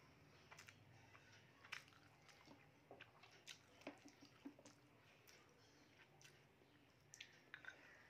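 Faint close-up chewing of a person eating rice and curry by hand, with irregular wet mouth clicks and squishes.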